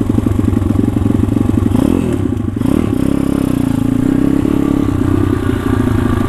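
Pit bike's small single-cylinder engine running loudly close to the microphone, the revs dipping and picking up again about two to three seconds in.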